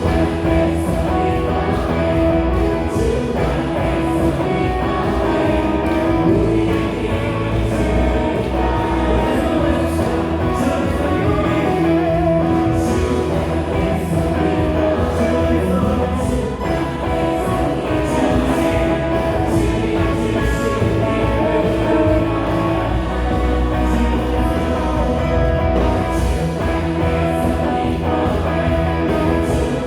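Live contemporary worship music: a band of drums, electric guitar, bass guitar and keyboard playing steadily, with singers.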